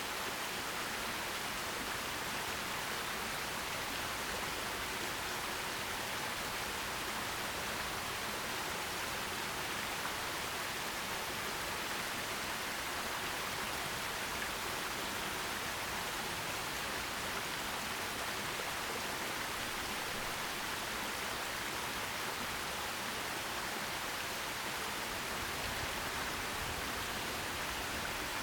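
Forest stream flowing over rocks: a steady, even rush of water with no breaks or distinct splashes.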